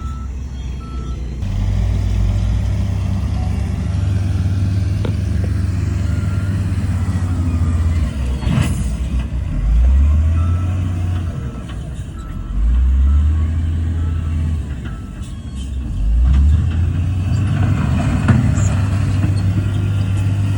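Heavy diesel earthmoving machinery running, its engine revving up under load several times. A reversing alarm beeps on and off.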